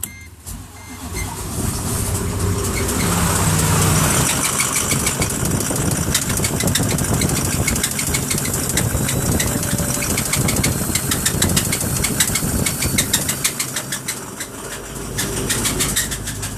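Ford 6.4 Powerstroke twin-turbo V8 diesel starting up and running with a rapid, heavy knocking, a horrible sound; its oil is full of metal shavings, a sign of serious internal damage.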